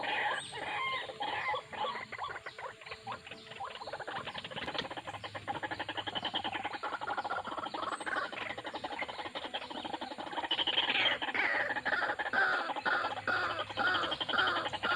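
White-breasted waterhens calling, a busy run of rapid, squeaky repeated notes that grows louder in the second half and settles into a regular series of about two calls a second.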